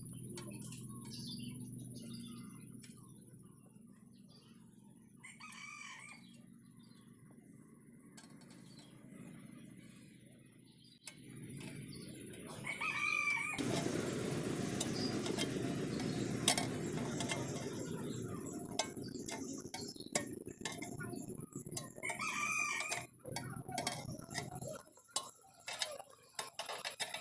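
Chickens calling three times in the background, a rooster among them, over a low steady noise that grows louder about halfway through; scattered clicks and knocks near the end.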